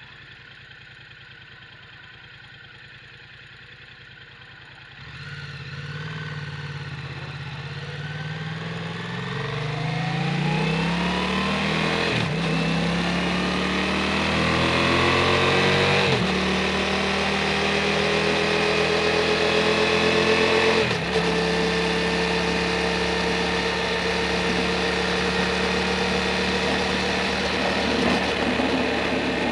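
Yamaha MT-07 parallel-twin engine with an Akrapovic full titanium exhaust, running quietly at first, then pulling away and rising in pitch through the gears with brief breaks at each gear change, then running steadily at a constant speed.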